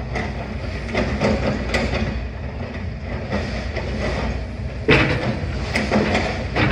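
A demolition excavator's engine running steadily under the irregular clatter and crunch of masonry and rubble, with a louder crash about five seconds in.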